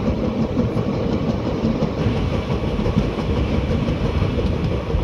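Indian Railways express passenger coach running on the rails: a steady rumble of wheels and running gear, heard from the coach itself.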